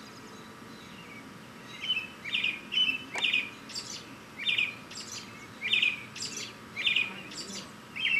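A songbird chirping over and over, short sharp calls about twice a second, starting about two seconds in.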